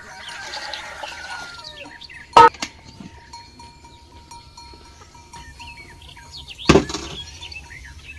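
Cookware handled by hand: a spoon scraping food out of an enamel bowl into a steel pot, then a sharp metal clang about two seconds in, and a heavier clunk near the end as the lidded stainless steel pot is set down on the stove's cast-iron top.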